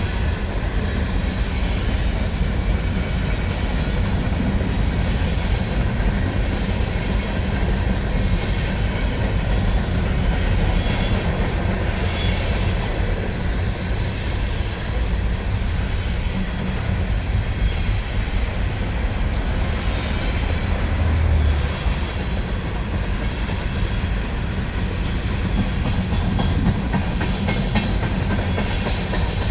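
CSX freight train rolling past, its cars making a steady, loud run of rail noise.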